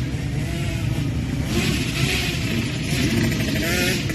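Motocross dirt bike engine being ridden, revving up and down so its pitch rises and falls several times.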